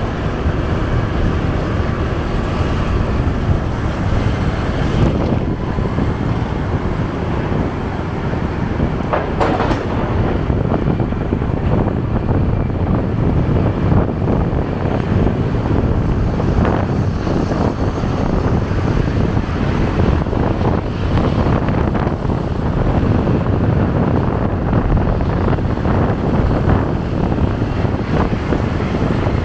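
Steady low rumble of riding a motorcycle through traffic: engine and road noise, with wind buffeting the microphone. There is a brief knock about nine seconds in.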